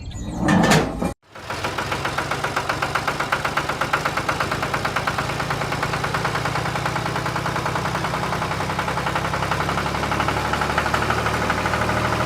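An engine running steadily with a fast, even chugging pulse. A short separate sound in the first second cuts off abruptly before the engine sound begins.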